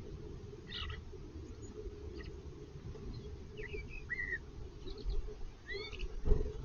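Small garden birds giving short chirps and curling calls at scattered moments, over the low steady rush of a garden stream, with one dull thump near the end.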